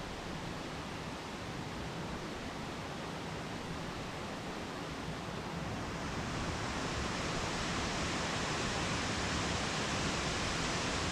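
Waterfall pouring over rock: a steady rush of falling water that grows louder about halfway through.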